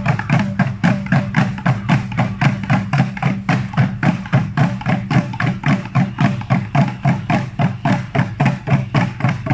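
Percussion music played live: a fast, even beat of hollow, low-pitched strikes, about four a second.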